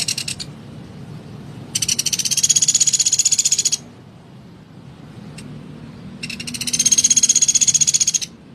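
Pelatuk beras woodpecker giving fast, high rattling calls: a short burst at the start, then two long rattles of about two seconds each, several seconds apart.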